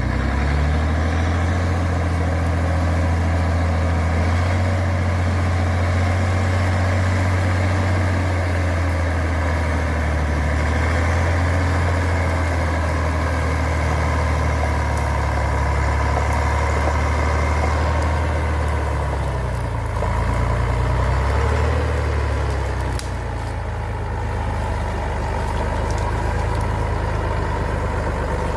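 Heavy truck engine running steadily, its pitch shifting about twenty seconds in before it settles slightly quieter.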